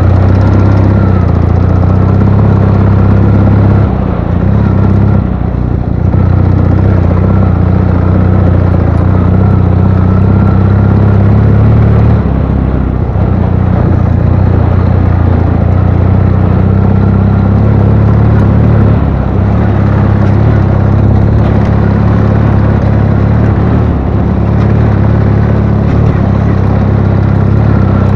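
Ural motorcycle's IMZ 8.103.10 air-cooled flat-twin engine running steadily under way. Its note dips briefly a few times: about four seconds in, around twelve seconds, and again near nineteen and twenty-four seconds.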